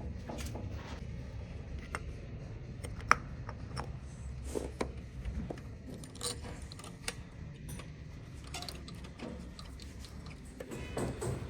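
Irregular light metallic clicks and clinks of small metal parts being handled and fitted, with one sharper click about three seconds in, over a low steady hum.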